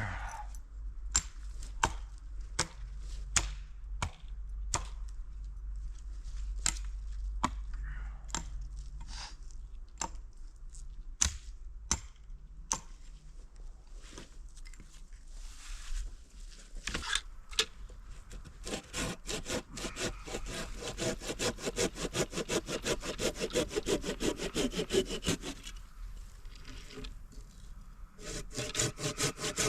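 Hand saw cutting wood with fast, even back-and-forth strokes that start past the middle, stop briefly near the end, then resume. Before that, a string of separate sharp knocks or crunches a little under a second apart.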